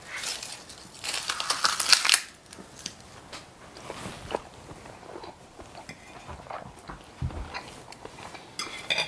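A couple of seconds of scratchy rustling, then biting into and chewing crispy-skinned roast chicken close to the microphone, with crunches and small clicks.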